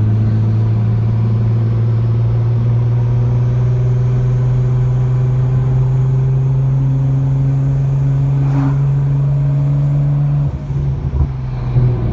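Nissan GT-R's twin-turbo V6 running through a muffler-free 4-inch Y-pipe-back exhaust, heard from the cabin with the windows down while cruising at steady engine speed: an even, low drone. A little after ten seconds the note drops and turns uneven.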